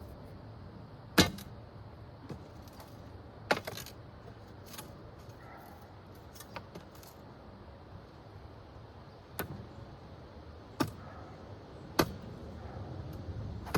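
Mallet blows driving a pole into the ground: about five sharp, clinking knocks at uneven intervals, with a few lighter taps between them.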